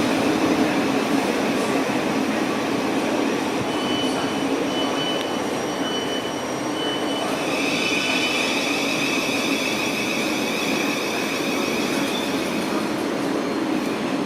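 Electric passenger train running through the station: a steady loud rumble of wheels on rail. Short high-pitched tones come and go about four seconds in, and steady high tones hold from about halfway until near the end.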